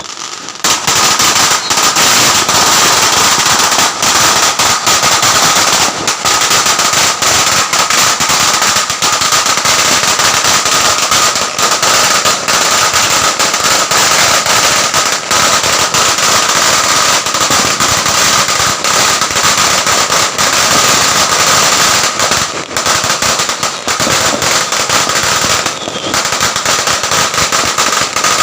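Firecrackers going off in a loud, dense, continuous rattle of rapid pops.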